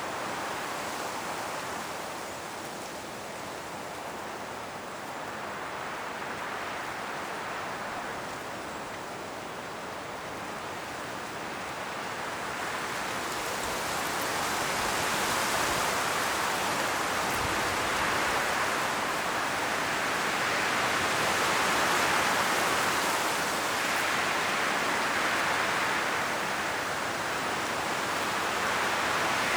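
Strong wind blowing through forest trees, rustling the dry autumn leaves in a steady rushing noise. It swells in gusts, getting louder from about halfway through.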